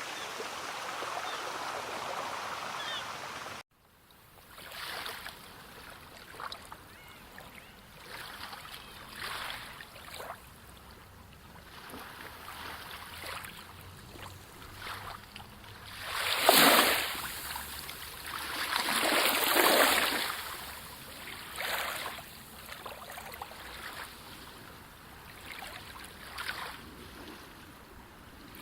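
Sea water: a steady rush of water that cuts off suddenly about four seconds in. Small waves then lap and wash in irregularly, with two larger waves breaking and surging past the middle.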